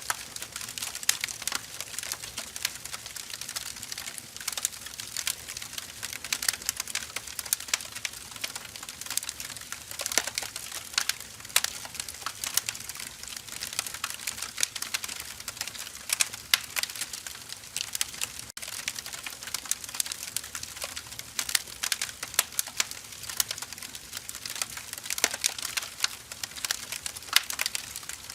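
Firewood burning, crackling with a steady stream of small irregular snaps and pops, mostly high-pitched.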